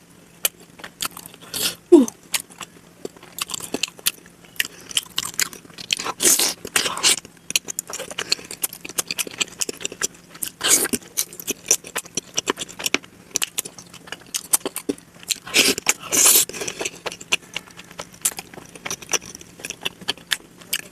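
Close-miked eating of momo dumplings sped up to double speed: quick wet chewing and biting smacks and clicks, with a few longer noisy bursts. A brief falling squeak about two seconds in is the loudest sound.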